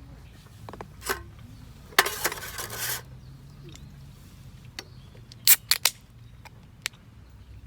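Objects being handled: a sharp click, then a rustle lasting about a second, then a quick run of three sharp clicks and one more click, over a steady low hum.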